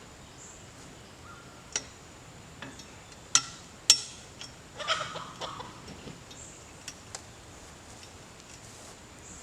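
A few sharp knocks, the loudest two about three and a half and four seconds in, with short faint clucks from farm fowl between them.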